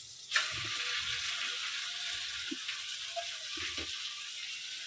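Sizzling in a hot pan: an ingredient goes into the hot oil about a third of a second in, and then a steady, even sizzle of frying.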